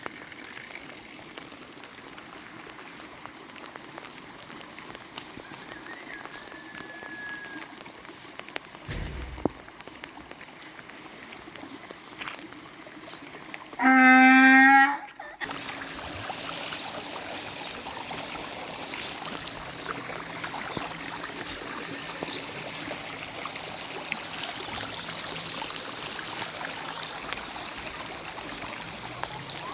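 Steady rain and running water. Near the middle comes one loud pitched call, about a second and a half long, and after it the water sounds louder and brighter.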